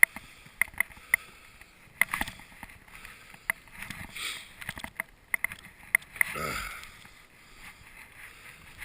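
Footsteps crunching through deep snow, with scattered sharp clicks and a short sound that glides down in pitch about six seconds in.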